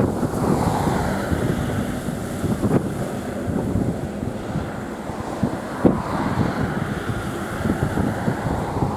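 Strong gusting wind buffeting the microphone, with a couple of sharper thumps from gusts.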